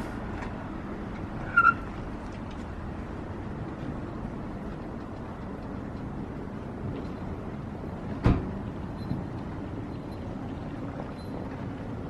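Steady road rumble of a moving car heard from inside, with a short squeak about a second and a half in and a single sharp knock a little past eight seconds.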